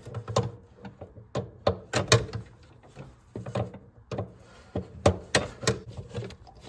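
Irregular knocks and clunks, more than a dozen, from hands and tools working on the car's engine, loudest about two seconds and five seconds in.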